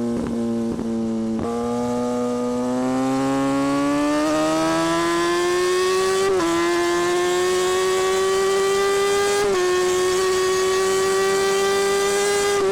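Kawasaki Ninja ZX-6R inline-four engine and exhaust under way, its note climbing steadily as the bike accelerates. It dips briefly twice, about halfway and about three quarters through, as it shifts up a gear.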